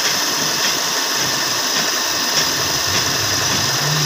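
Suzuki Mehran's carburetted three-cylinder engine idling steadily, heard close up in the open engine bay, before its idle mixture screw is adjusted.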